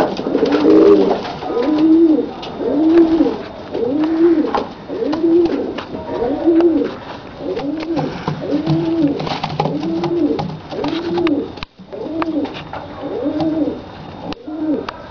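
Bokhara trumpeter pigeon trumpeting: a long, even run of low coos, each note rising and falling in pitch, about one a second.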